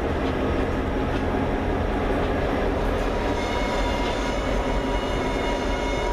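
Freight train of covered hopper cars rolling past, a steady rumble of wheels on rail. About three seconds in, a thin, steady high whine made of several tones joins it as a Norfolk Southern diesel locomotive comes alongside.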